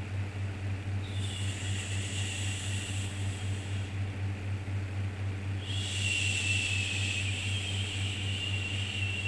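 Long shushing 'shhh' sounds for soothing a baby: two drawn-out shushes of about three seconds each with a pause of about two seconds between them, over a steady low hum.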